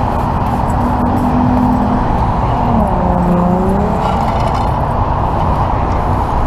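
Steady roar of freeway traffic going by, with one vehicle's engine tone dipping and rising again about three seconds in.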